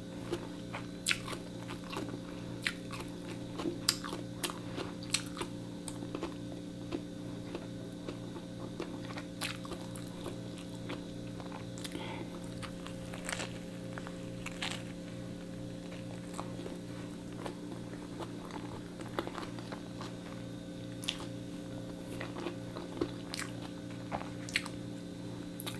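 Close-miked chewing and biting of a toasted sandwich filled with egg, mayonnaise and lettuce, with scattered small crunches. A steady low hum runs underneath.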